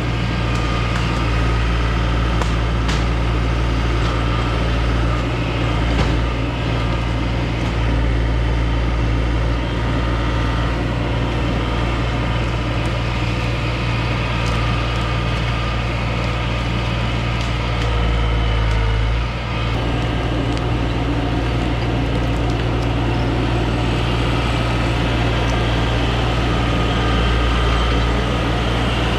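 New Holland LS180 skid steer's diesel engine running steadily, with scattered metallic clicks and knocks; the engine note dips briefly about two-thirds of the way through.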